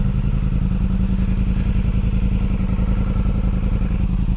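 Motorcycle engine running steadily at low revs, with a dense, even pulsing.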